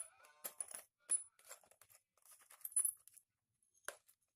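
Metal clinking and tapping as tools and small engine parts knock together: a string of sharp, irregular clicks with a bright ring.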